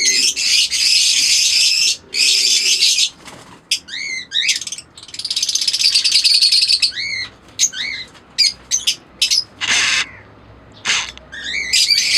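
A flock of small caged parrots, lovebirds and cockatiels, chattering and chirping in an aviary. Stretches of dense, shrill chatter alternate with short, arched chirps.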